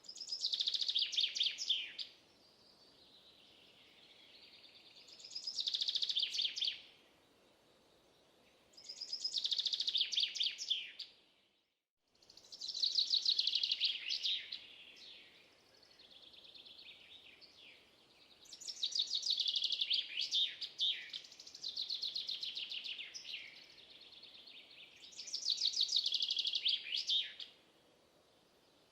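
A songbird singing about seven phrases, each a quick run of high notes lasting around two seconds, with short pauses between them. The sound cuts out completely for a moment about midway.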